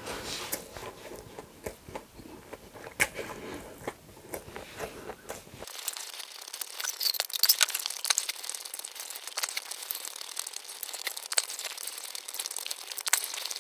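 Close-miked chewing of a mouthful of burger: wet smacking and crunching with many small clicks. About six seconds in it turns thinner and becomes a dense, crisp crackle.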